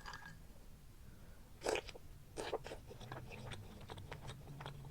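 Faint, close-up chewing of soft bread: scattered wet mouth clicks and smacks, one louder about two seconds in.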